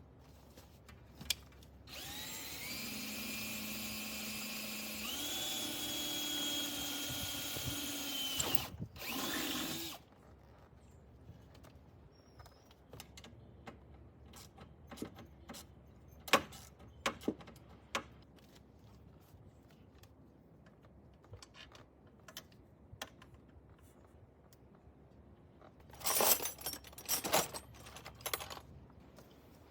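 Electric drill boring holes in a metal mounting angle. Its motor whine steps up in pitch partway through and stops after about six seconds, followed by a brief second run. Then come scattered light clicks and knocks of handling, and a short clatter near the end.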